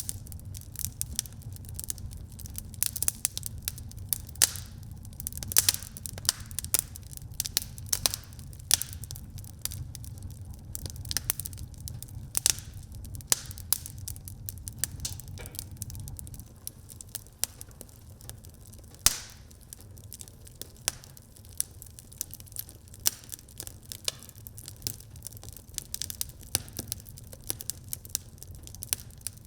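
Wood fire crackling in a fireplace: many irregular sharp pops and snaps over a low steady rumble of the flames, the rumble easing a little about halfway through.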